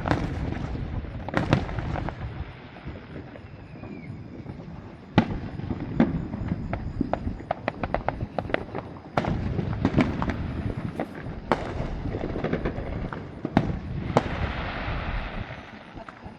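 Fireworks display: aerial shells bursting one after another, each a sharp bang with a low rumbling tail. A run of quick crackles comes about six to eight seconds in, and the sharpest bang comes about five seconds in.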